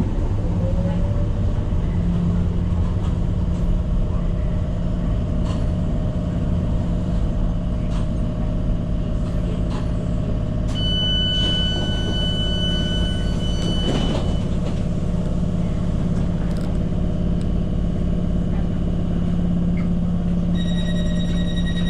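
Tyne & Wear Metro train running, a steady low rumble and hum under a motor whine that climbs briefly at the start and then holds level. A high steady whistle sounds for about three seconds around the middle, and a rapid beeping starts near the end.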